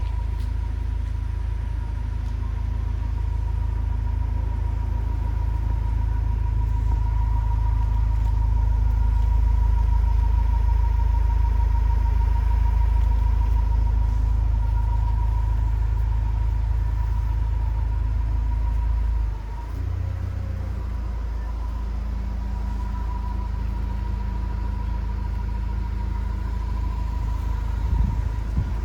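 Honda Torneo SiR's four-cylinder engine idling through an aftermarket exhaust, a steady low rumble. About two-thirds of the way in the sound dips briefly and settles into a slightly quieter, differently pitched idle.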